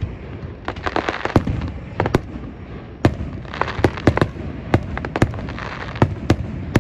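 Aerial fireworks bursting: a quick, irregular string of sharp bangs, about two a second, with patches of crackling hiss between them.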